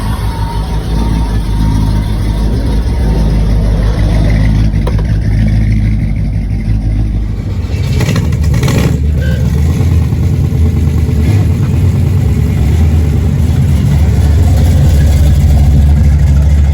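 Hot rods and muscle cars driving past, their engines and exhausts running loud and deep. The low engine note changes about halfway through as a different car comes by, with a brief louder burst just after.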